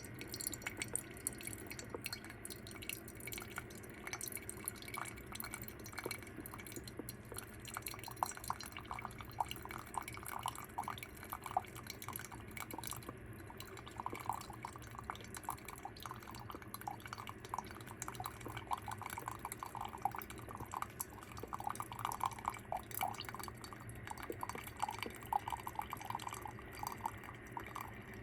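Hamilton Beach single-serve coffee maker brewing: hot water sputtering and coffee dripping into the cup, an irregular crackle that gets busier from about eight seconds in, over a low steady hum.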